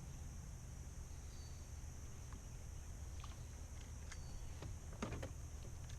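Faint outdoor ambience on the water: a steady high insect drone over a low hum, with a few light clicks or knocks.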